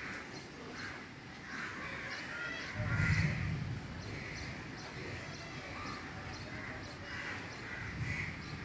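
Birds calling in the trees, with a run of short high chirps repeating about twice a second. A brief low rumble comes about three seconds in and is the loudest sound.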